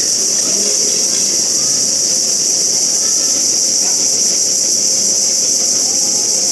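Steady, loud, high-pitched insect chorus, with faint distant voices underneath.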